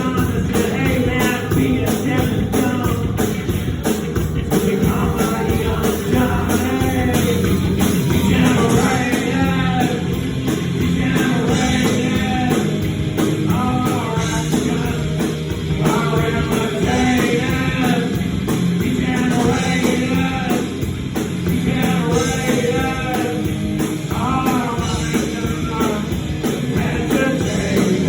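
Rock song with a singer over a full band of guitar, bass and drums.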